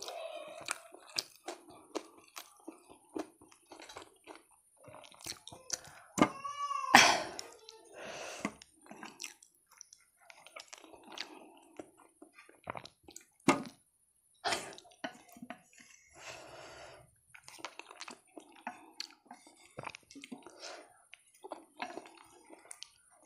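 Close-up eating sounds of muskmelon pieces being bitten and chewed, with wet mouth noises and scattered sharp clicks. About six seconds in comes a short pitched vocal sound that bends up and down, the loudest moment.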